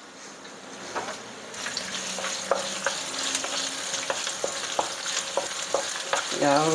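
Sliced shallots, garlic and ginger sizzling in hot oil in a nonstick wok, the sizzle building after the first second or so. A wooden spatula stirs them, with scattered clicks and taps against the pan.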